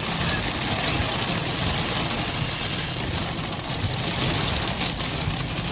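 Steady rushing storm noise, wind and rain, heard around a storm-chase vehicle, with a continuous low rumble from the vehicle beneath.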